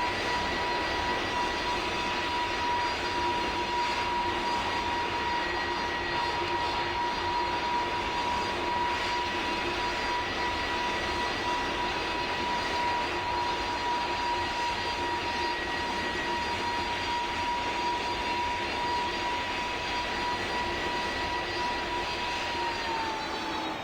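Jet aircraft engines running with a steady roar and a high whine. The whine dips in pitch near the end.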